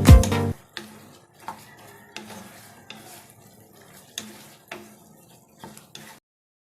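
Background music with a heavy beat cuts off about half a second in. Then a metal cooking utensil clinks lightly against a pan, about nine faint knocks spaced irregularly, stopping about six seconds in.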